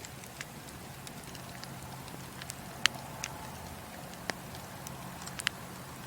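Wood fire burning in a fireplace, crackling: scattered sharp pops and snaps over a steady hiss, the loudest about three seconds in and again near the end.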